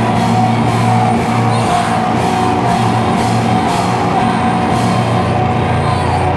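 Slowcore/noise rock band playing live and loud: distorted electric guitars and bass over a drum kit with cymbal hits.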